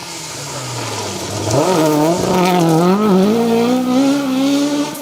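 Rally car engine on a special stage: low revs at first, then revving up hard and wavering from about a second and a half in as it pulls away, climbing steadily through the second half.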